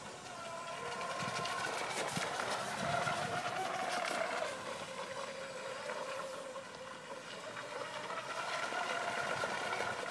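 A small engine running at high revs, its pitch wavering up and down and dropping a little about four and a half seconds in.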